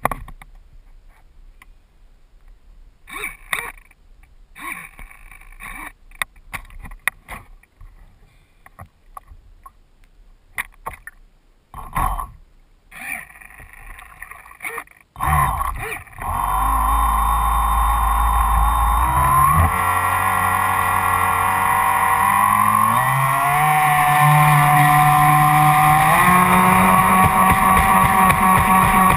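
Knocks and clicks for about the first half, then the RC speed boat's Graupner 700 BB Turbo electric motor starts up and runs with a steady whine that rises in pitch in several steps as the throttle is opened.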